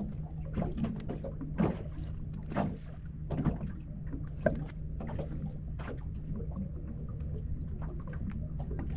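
Knocks and taps in a small fishing boat as a fish is brought in and handled, scattered irregularly over a steady low hum.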